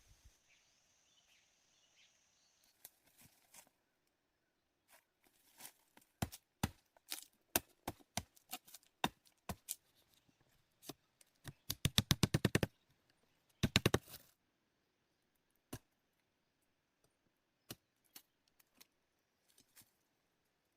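A series of sharp knocks, scattered and irregular at first, then a fast run of about ten a second near the middle, followed by a shorter burst. Only a few isolated knocks come after that.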